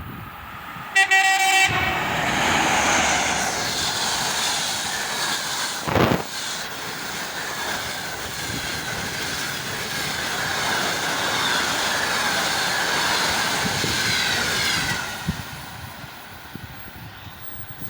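EP2K electric locomotive sounding one short horn blast, then it and its passenger train running past on the rails, with a sharp thump about six seconds in. The train noise fades away near the end.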